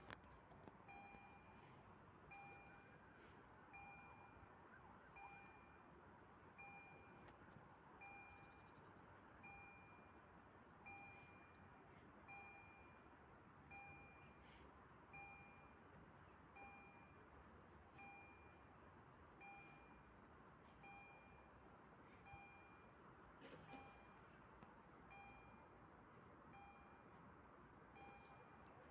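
Faint electronic warning chime, a short pitched beep repeating evenly about once every 1.3 seconds, over low background noise.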